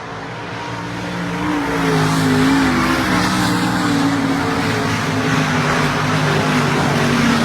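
Dirt-track modified race cars running at speed on the track. The sound builds over the first two seconds, then stays loud, with several engine pitches wavering up and down.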